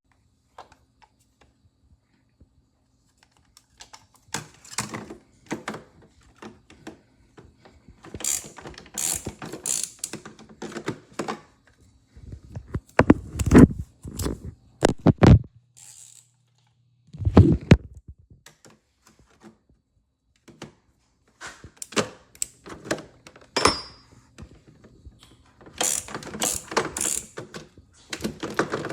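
Irregular mechanical clicks, clacks and knocks of hard objects being handled, loudest in a cluster of knocks about halfway through and one more soon after, over a faint steady hum.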